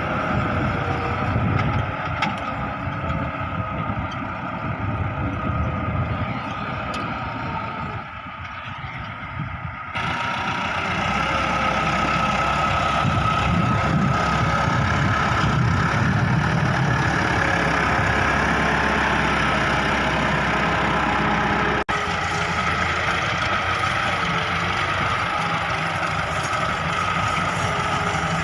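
Massey Ferguson 385 tractor's four-cylinder diesel engine running steadily under load while pulling a cultivator. The sound changes abruptly about ten seconds in and again around twenty-two seconds.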